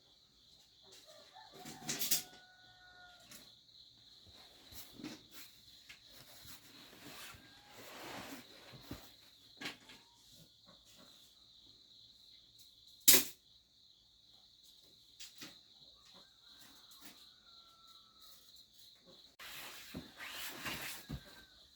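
Insects shrilling steadily in the background, with scattered rustles and knocks and one sharp, loud knock about thirteen seconds in.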